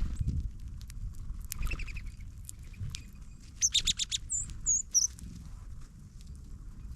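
Small songbirds at a ground feeder giving a few short, high chip notes around the middle, mixed with quick pecking taps and scuffling close to the microphone.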